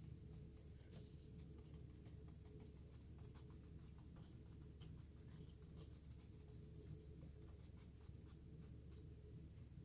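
Faint scratching of craft sand being spread and pressed onto a panel: many small, irregular gritty ticks over a low steady hum.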